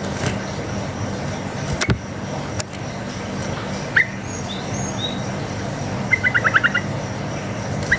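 Yellow-vented bulbul (trucuk) calling: single short rising chip notes, then a quick run of about six rapid notes near the end. Fainter, higher bird notes come in around the middle, over a steady background hum.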